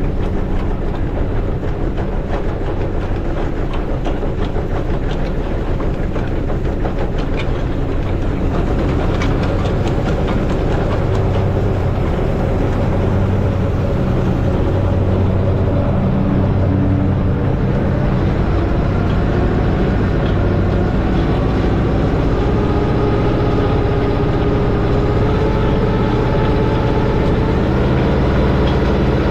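Allis-Chalmers tractor engine running steadily, its speed and pitch rising slowly through the second half.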